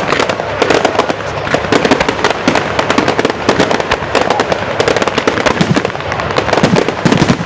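Fireworks going off in a rapid, continuous crackle of many sharp bangs.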